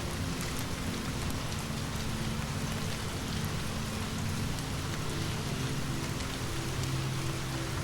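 Steady rain falling, with scattered sharp ticks over it and a low steady drone underneath.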